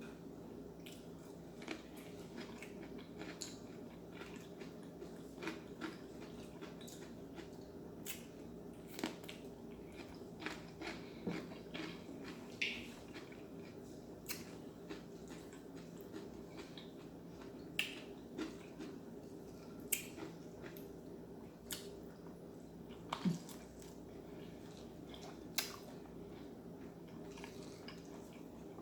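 Close-up eating sounds: chewing and biting with scattered sharp clicks and crunches, over a steady low hum.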